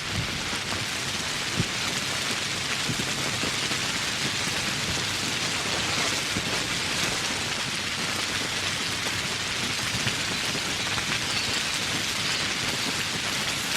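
Steady, heavy rain falling on foliage and surfaces, a dense hiss with many individual drop ticks and one sharper drip about a second and a half in.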